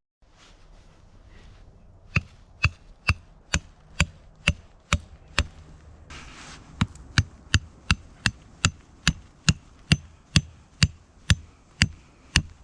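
Repeated hammer-like blows, about two to three a second, each with a short ringing note. They come in two runs: one starts about two seconds in, and after a pause around six seconds in the second run carries on to near the end.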